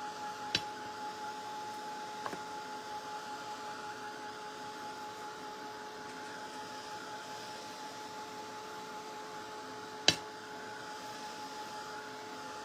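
A steady hum with a faint hiss beneath it. It is broken by two sharp clicks, a small one about half a second in and a louder one about ten seconds in.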